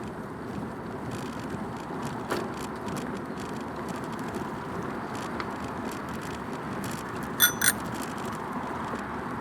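Bicycle tyres rolling along a path, a steady rumbling noise with a single knock a couple of seconds in. Near the end a bicycle bell rings twice in quick succession, ding-ding.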